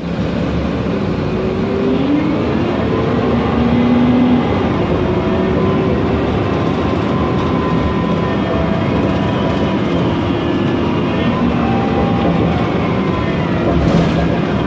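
Mercedes-Benz Conecto NGT city bus under way: its OM 936 G CNG engine and Voith DIWA automatic gearbox whining, the pitch slowly rising and falling with speed, over a steady loud fan noise.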